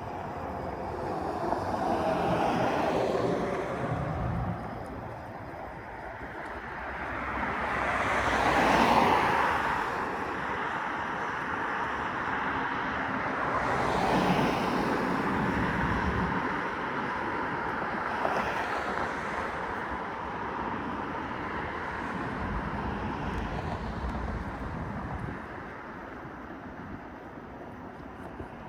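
A rush of wind and road noise with no steady tone, swelling and fading over a few seconds at a time and loudest about nine seconds in.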